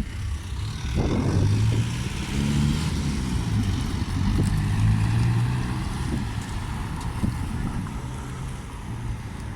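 Train's diesel engine running with a low, steady drone that swells about a second in, over a broad rumbling noise.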